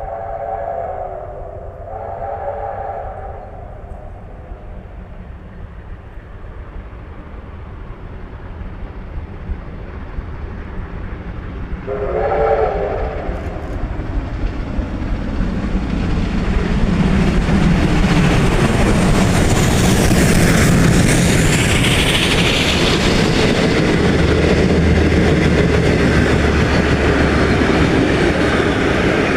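Victorian Railways R class 4-6-4 steam locomotive R711 sounding its chime whistle in two blasts near the start and one more about twelve seconds in. The train then approaches and passes, growing loud from about fourteen seconds and staying loud through the end.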